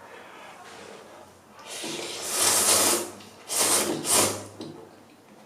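Spicy Samyang ramen noodles being slurped: one long slurp about two seconds in, then two short ones.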